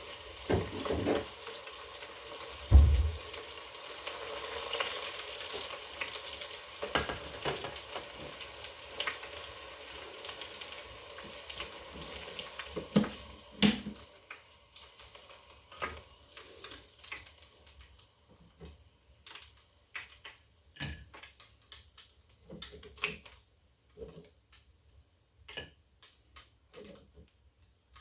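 Round gobies frying in a pan with a steady sizzle, a loud knock about three seconds in. The sizzle dies away about halfway through, leaving scattered clinks and taps of pan and utensils.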